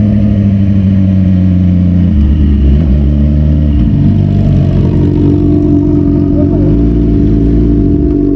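Yamaha R6 sportbike's inline-four engine under way, its pitch rising and dropping several times as the rider rolls on and off the throttle and shifts gears.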